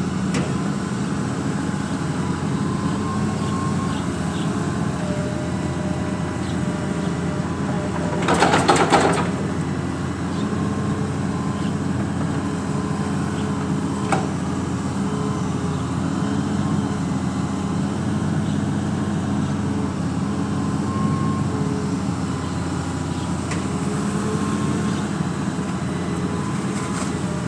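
Engine running steadily, with a loud, hissy rush of noise lasting about a second, roughly eight seconds in.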